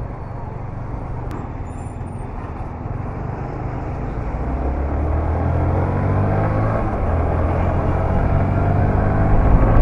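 Yamaha sport motorcycle's engine under way in traffic: low and even at first, then revving up with a rising pitch from about four seconds in as the bike accelerates, getting louder toward the end.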